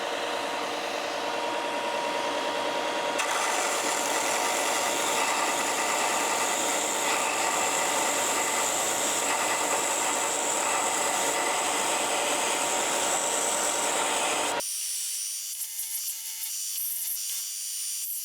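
Belt sander running steadily as a hickory spatula blank is pressed against the abrasive belt, grinding the wood away. About fifteen seconds in the sound changes abruptly, losing its low end and turning thin and high.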